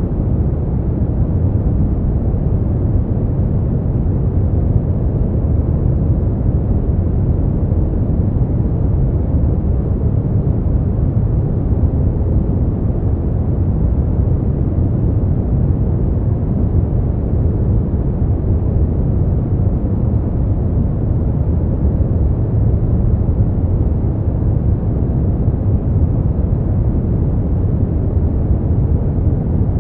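Brown noise: a steady, deep rumbling hiss, strongest in the low end and thinning out above a few hundred hertz, unchanging throughout.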